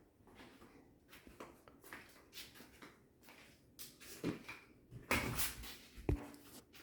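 Faint scattered clicks and knocks of handling in a small room, then a louder rough scraping noise about five seconds in and a low thump about a second later.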